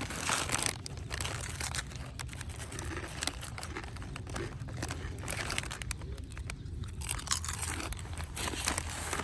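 Irregular crunching and crinkling close to the microphone, from food being eaten and handled, over a low steady rumble.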